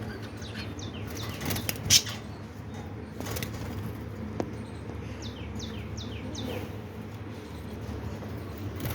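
Caged budgies and finches chirping in short falling calls and fluttering their wings, with a sharp knock about two seconds in.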